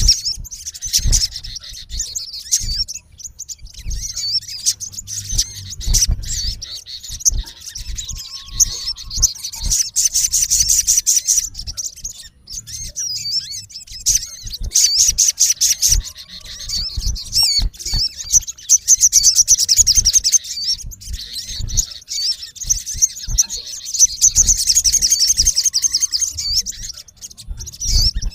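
Male olive-backed sunbird calling hard: a stream of sharp, high-pitched chirps broken by fast rattling trills several times, with scattered low thuds underneath.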